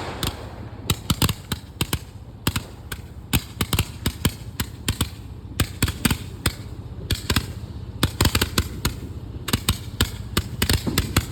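Consumer multi-shot firework cake going off: a fast, irregular series of sharp bangs and pops, several a second, with brief lulls between clusters.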